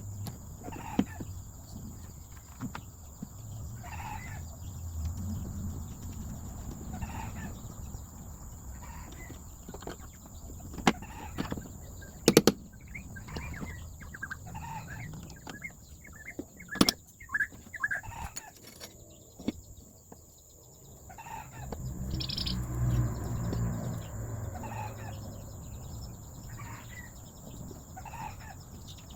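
Short animal calls, like a fowl's, repeating every few seconds, with a few sharp knocks near the middle over a low rumble.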